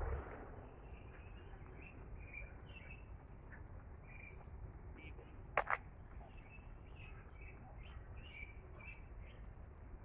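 Birds chirping in short, scattered calls over a low steady background rumble. Two sharp clicks in quick succession a little past halfway are the loudest sounds.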